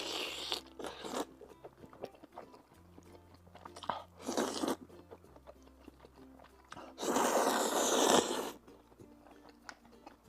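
Close-miked eating: biting into and chewing a sauce-soaked spicy crayfish skewer, with crunching and wet mouth noises in short bursts. The longest and loudest burst comes about seven seconds in and lasts over a second. Quiet background music with low held notes runs underneath.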